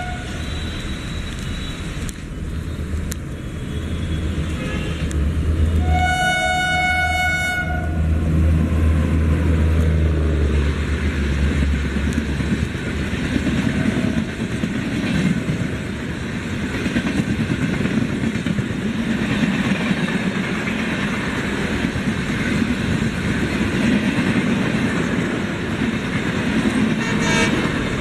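Moving train, with a heavy low rumble and a steady rush of noise. The train horn sounds once about six seconds in, a single blast of about a second and a half.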